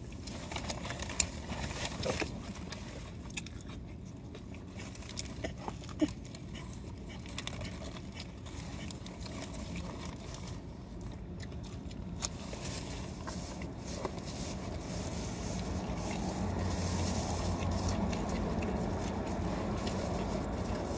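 Chewing and mouth noises with a few sharp clicks, inside a car. A low vehicle rumble grows louder over the last few seconds.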